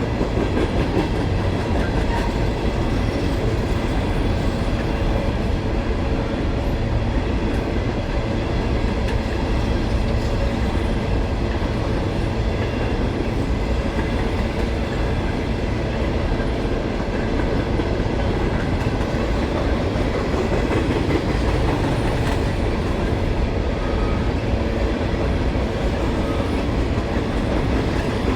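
Freight train of empty coal gondolas and hoppers rolling past, a steady loud rumble with wheels clattering on the rails.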